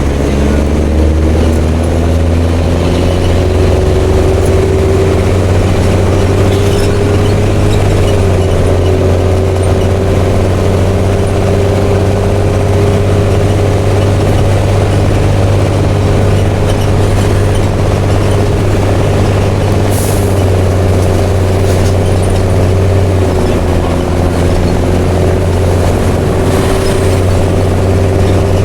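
Mercedes-Benz OM366LA turbo diesel of a city bus with an open, free-flowing exhaust, running loud and steady under way. Its note climbs over the first few seconds, then holds nearly level with slight dips. There is one short hiss about 20 seconds in.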